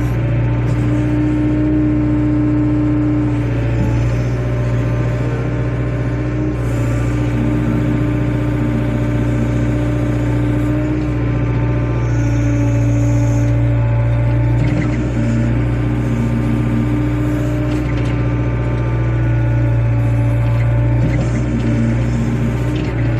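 Excavator engine running steadily under working load, a deep drone with a higher hum that comes and goes every few seconds as the hydraulics take up load.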